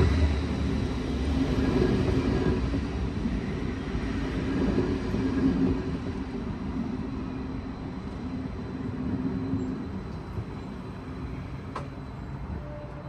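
Double-deck electric commuter train rolling slowly past the platform, a low running rumble that gradually fades as it slows. There is a single sharp click near the end.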